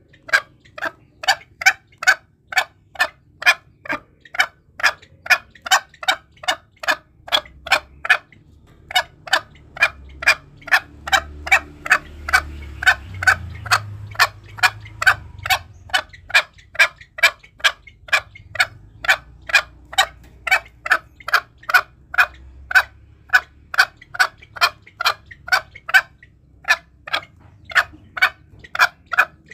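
Green junglefowl calling: a steady run of short, sharp clucks, about two a second, breaking off briefly twice.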